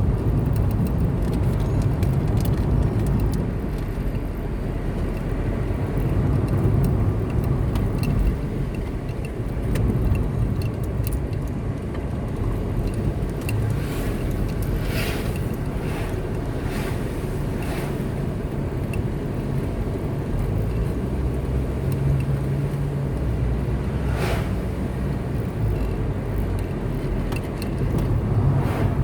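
Car driving on a road: a steady low rumble of engine and tyres, with several short hissing swishes around the middle and another near the end.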